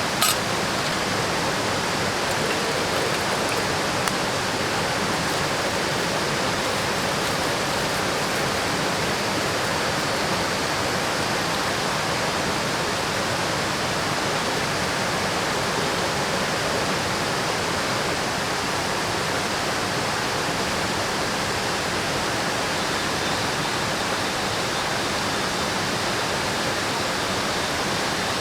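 Steady rush of river water flowing, an even unbroken hiss.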